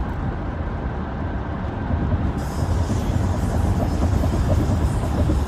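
Road noise inside a moving car: a steady low rumble with a hiss over it, getting louder and brighter about two seconds in.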